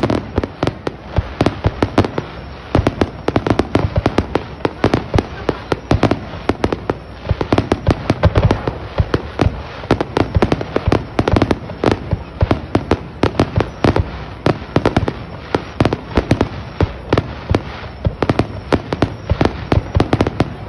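Fireworks display: shells bursting in quick succession, several sharp bangs a second without a break, over a continuous crackle.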